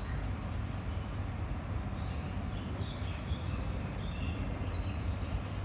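Low, steady rumble of the Hakone Tozan Railway Moni 1 electric freight car moving in the depot yard, with birds chirping briefly here and there.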